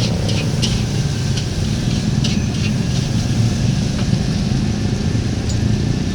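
Steady low roar with a handful of short scraping clinks over it, as of a metal spatula working a wok over a gas burner at a street fried-rice stall.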